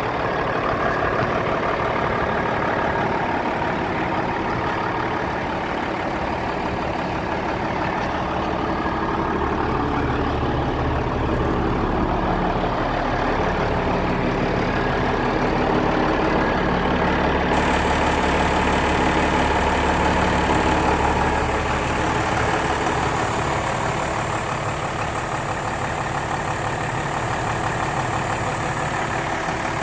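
Cummins 8.3-litre six-cylinder diesel engine of an Ottawa Model 30 yard tractor running steadily at idle. A high hiss joins about halfway through.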